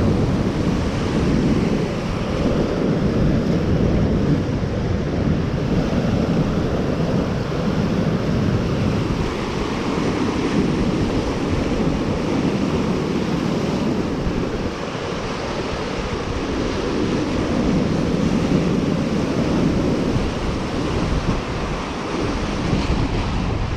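Waves washing onto a shore, with wind rumbling on the microphone; the rush swells and eases every several seconds.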